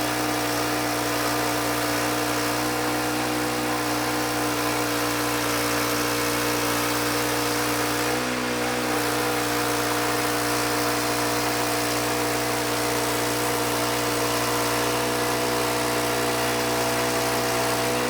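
Sawmill engine idling steadily between cuts.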